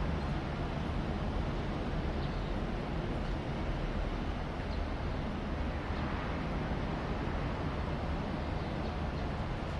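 Aircraft flying overhead: a steady, even rumble with a low hum under it.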